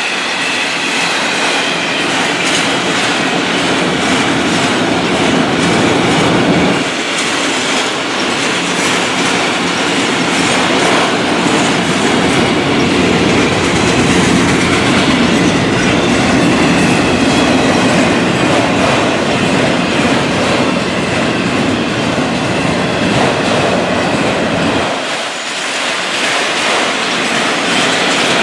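Train cars rolling past at close range: a steady rail rumble with wheels clicking over the rail joints and a faint high wheel squeal.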